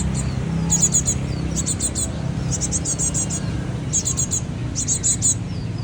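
Cinereous tit (glatik watu) chicks calling in quick bursts of three to five high, thin chirps, each burst about a second apart. A steady low rumble runs underneath.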